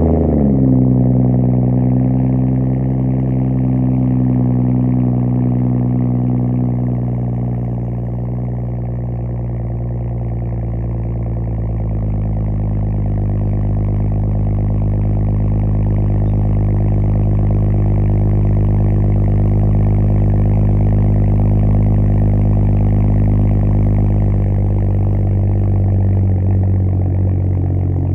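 BMW M235i's N55 3.0-litre turbocharged straight-six idling after a cold start, exhaust straight-piped through a rear muffler delete. The start-up flare settles within the first second into a steady idle, which drops slightly in pitch about twelve seconds in.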